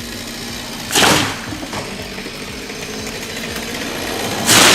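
An engine running steadily, with two loud, short rushing bursts of noise, one about a second in and one near the end.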